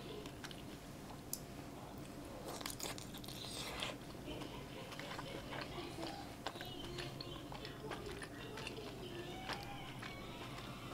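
Close-up chewing of a steamed chive-and-tofu dumpling, with soft mouth clicks and smacks at irregular intervals.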